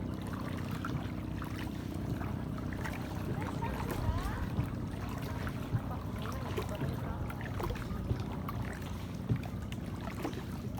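Boat engine running steadily, a constant low hum, with scattered splashes and knocks over it.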